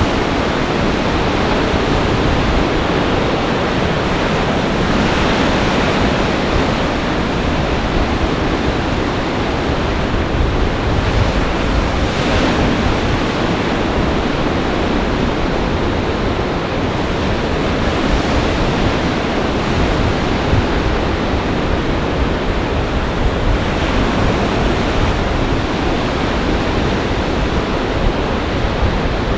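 Lake Michigan storm surf breaking in gale-force wind: a dense, steady rush of waves and wind with a few louder surges, and wind buffeting the microphone.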